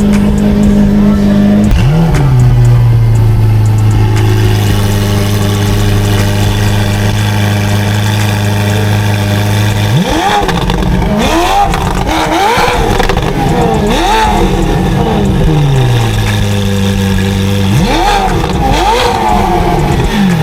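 Car engine with a newly fitted aftermarket exhaust, idling with one quick blip about two seconds in. In the second half it is revved in a run of short, sharp blips, each rising quickly and dropping back to idle; it is loud.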